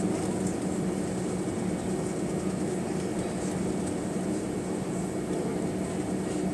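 Steady cabin drone of an Airbus A320's CFM International CFM56-5A3 engines, heard from a seat near the back, with a low even hum.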